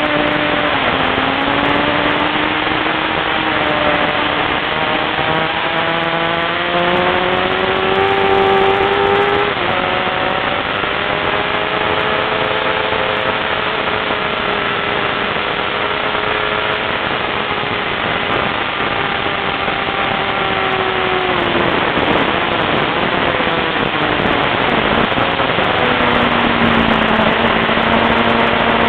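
Sport motorcycle engine at speed on a racetrack, its note climbing over the first several seconds, dropping away a little past twenty seconds in and holding lower near the end, with loud wind rush over the microphone throughout.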